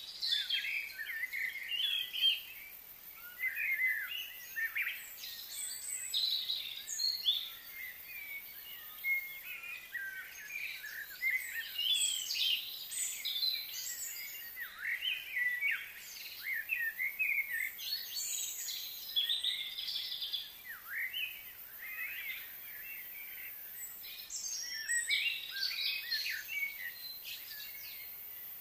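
Wild birds chirping and calling, many short quick chirps and sweeping notes overlapping, louder in spells.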